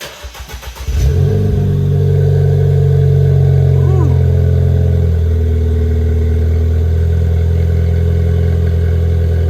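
Ford Fiesta ST's 1.6-litre turbocharged four-cylinder being cranked for about a second, then catching and running at a loud, steady cold idle through a freshly installed MBRP aftermarket exhaust.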